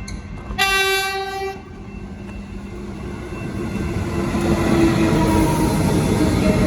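Electric suburban train sounding one horn blast of about a second, then its rumble swells steadily as it approaches the level crossing.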